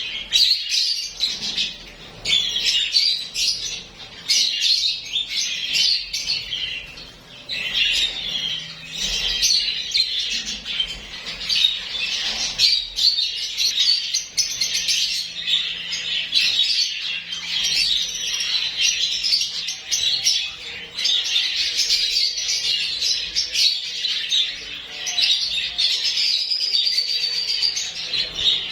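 A flock of lovebirds chattering: many high, shrill chirps overlapping without a break.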